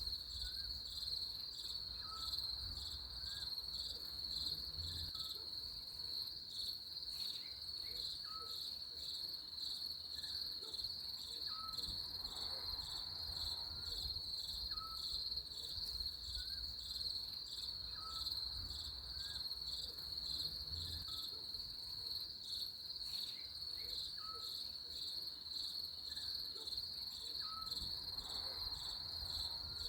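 Crickets chirping in a steady, pulsing high trill. A short chirp repeats every couple of seconds underneath it.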